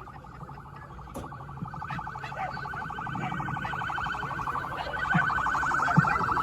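Emergency-vehicle siren sounding in a fast pulsing warble, getting steadily louder as it comes closer.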